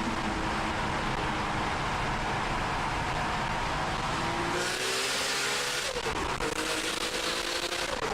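Nissan Skyline GT-R R34 engine under hard acceleration with a loud rush of exhaust and road noise. About four and a half seconds in, the engine note rises through a gear, drops at a shift about six seconds in, then rises again until another shift near the end.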